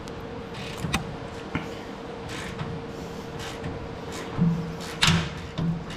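Hand wrench and socket being worked on a rusted bolt, with scattered metal clicks and knocks and a louder clank about five seconds in, over a steady hum.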